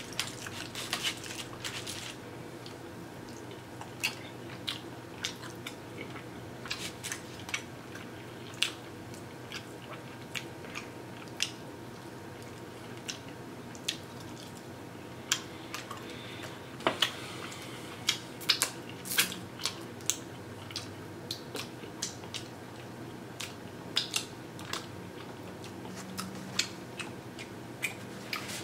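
Close-up chewing and biting of saucy barbecued baby back ribs: irregular wet mouth smacks and sharp little clicks scattered throughout.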